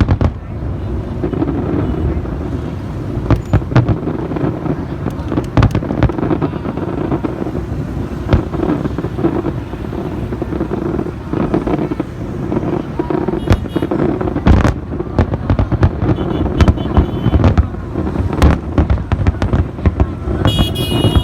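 Fireworks display: many sharp bangs of bursting shells over a continuous low rumble, with a high whistling tone near the end.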